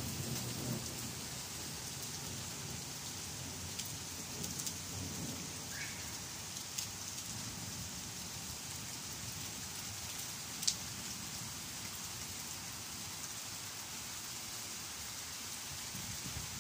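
Steady summer rain falling through trees, an even hiss with scattered sharp ticks of drops striking close by, one louder tick about ten and a half seconds in.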